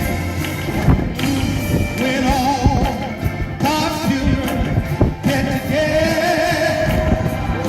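A singer holding long, wavering notes over instrumental accompaniment: worship music during a church service.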